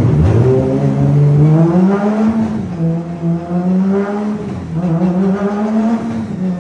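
Toyota Supra engine and exhaust being revved, the pitch climbing and dropping back about three times.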